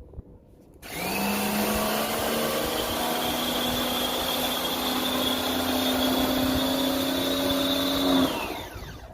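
A small electric motor-driven machine with a vacuum-cleaner-like sound switches on about a second in. It runs steadily for about seven seconds, its whine creeping slightly higher, then winds down and stops.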